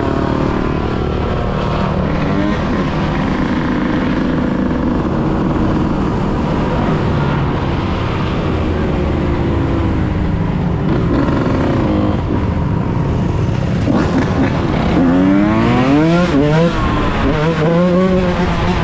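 Yamaha YZ125 two-stroke single-cylinder dirt bike engine revving up and down while riding, over a steady low rumble. The engine pitch climbs and falls several times in quick succession in the last few seconds.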